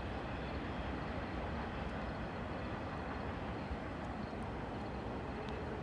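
Freight train cars rolling past on the rails, a steady, even noise that is heaviest in the low end.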